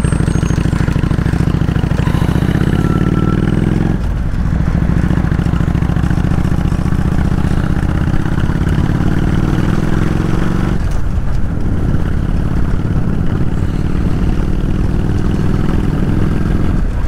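Kawasaki VN800 V-twin motorcycle engine pulling up through the gears on the move. Its pitch climbs, drops at an upshift about four seconds in, climbs again and drops at a second upshift near eleven seconds.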